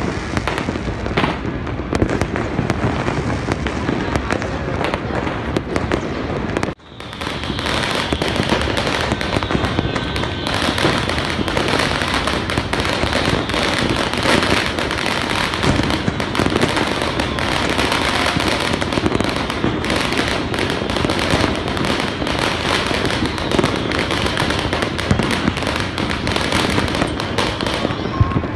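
Many fireworks and firecrackers going off across a city at once: a dense, continuous crackle of pops and bangs. It cuts out briefly about seven seconds in, then resumes.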